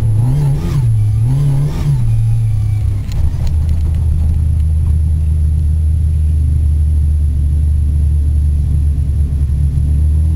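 Rally car's engine heard from inside the cabin while driving on a dirt stage: the revs rise and fall for the first few seconds, then about three seconds in the note drops and holds steady and lower.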